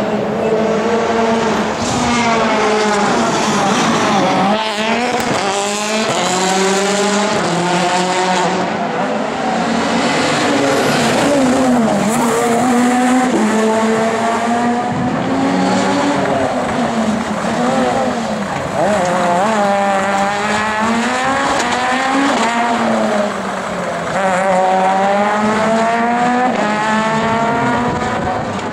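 Peugeot 207 S2000 rally car's naturally aspirated 2.0-litre four-cylinder engine revving hard. The pitch climbs and drops again and again as it goes through gear changes, braking and acceleration.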